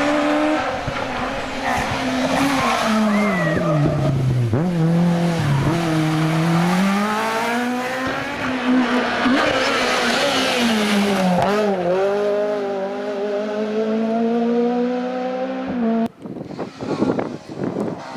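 Rally kit car engine at high revs, its pitch dropping and climbing again and again as the driver lifts, shifts and accelerates through a stage. About two seconds before the end the sound cuts abruptly to a quieter, choppier, uneven passage.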